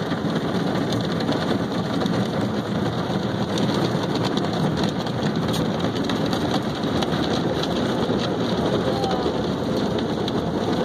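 Automatic car wash spraying water against the car's body, a steady rain-like drumming heard from inside the cabin.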